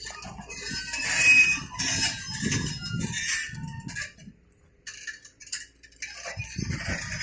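Chickens clucking, in bursts that stop for about two seconds in the middle and then start again.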